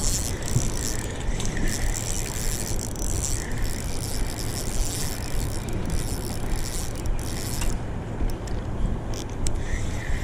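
Fishing reel working during a fight with a hooked fish, a fast run of ratcheting clicks and whirring that stops about three-quarters of the way through.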